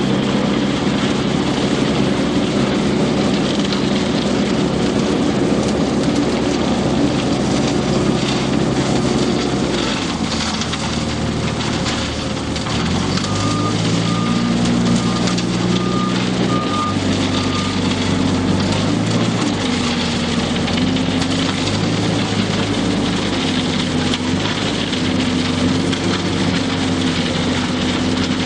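Diesel engine of an EP3.5 self-loading concrete mixer truck running under changing load, its pitch dropping and rising several times. About halfway through, a reversing alarm sounds a string of short beeps for a few seconds.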